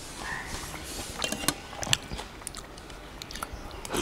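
Close mouth sounds of a person chewing a mouthful of rice and curry eaten by hand, with scattered small clicks and smacks.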